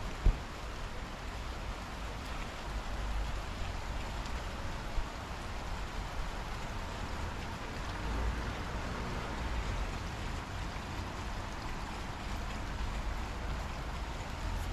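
Steady rain falling in a thunderstorm, with low rumbling swells now and then. There is a sharp click about a third of a second in and a smaller one about five seconds in.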